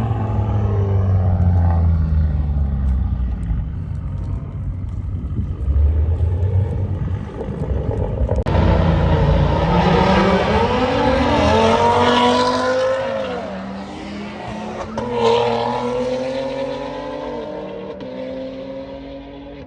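Car engines with a deep exhaust rumble. About eight seconds in, engines rev up and down in pitch, then fade toward the end.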